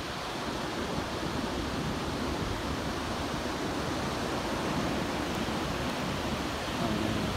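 Ocean surf washing up the beach: a steady, even rush of water noise.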